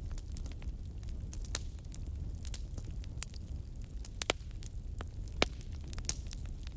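Wood bonfire burning, with irregular sharp crackles and pops over a steady low rumble; the loudest pops come about four and five and a half seconds in.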